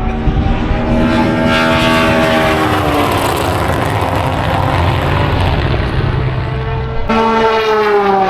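Historic race car engines at full throttle as the cars pass, the engine note falling as each goes by; a second car comes through near the end.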